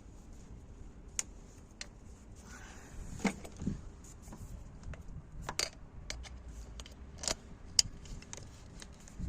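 Scattered metallic clicks, clinks and a few knocks of hand tools in an engine bay as a compression gauge is moved and fitted into the next cylinder's spark plug hole.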